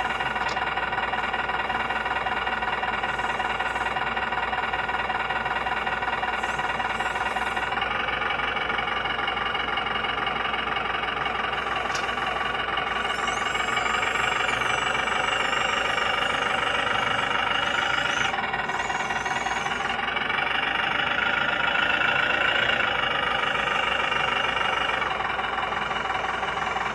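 Simulated diesel engine sound of a 1/14-scale RC semi truck running steadily with a knocking clatter, rising in revs about eight seconds in and again from about thirteen to twenty-three seconds. A high wavering whine sits on top from about thirteen to twenty seconds.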